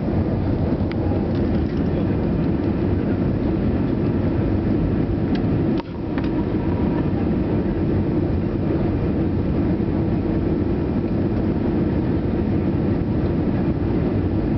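Steady low rumble of engine and airflow noise inside the cabin of an Airbus A320 airliner, with brief dips in level right at the start and about six seconds in.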